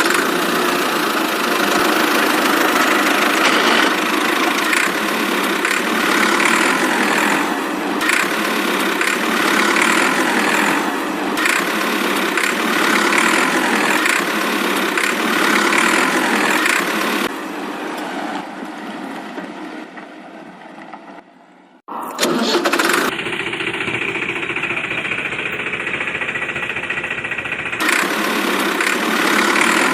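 Tractor engine running steadily. It fades down about two-thirds of the way through, cuts off, and starts again a second later.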